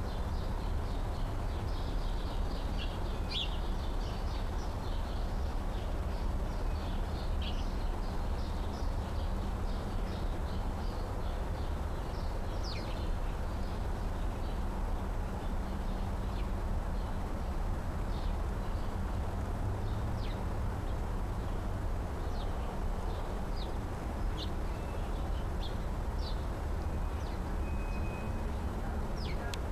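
Short, high chirps of small birds scattered throughout, over a steady low rumble.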